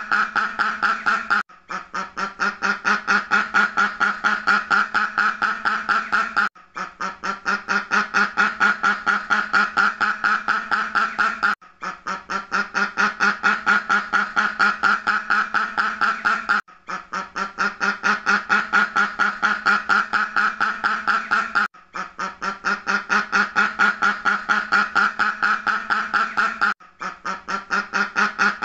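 Duck quacking in fast strings of many quacks a second, in runs about five seconds long split by brief breaks, each run starting softer and building up. The same run repeats over and over, as in a looped recording.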